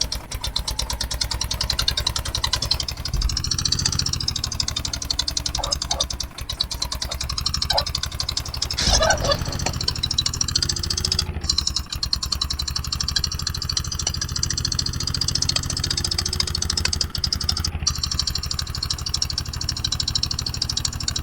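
Eicher 241 tractor's single-cylinder diesel engine running steadily with an even, rapid firing beat.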